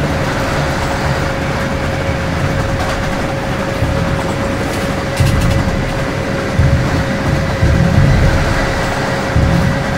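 High-speed train running at speed: a steady rushing rail noise with one constant tone through it, and heavy low rumbles that swell and fade from about five seconds in.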